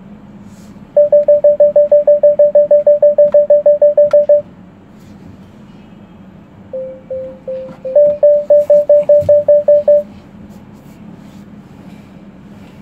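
A Porsche's parking-sensor warning beeping rapidly, about six short beeps a second for about three seconds. Then come a few lower-pitched beeps and another rapid run of higher beeps lasting about two seconds, warning that the car is close to an obstacle while it manoeuvres. A steady low engine hum runs underneath.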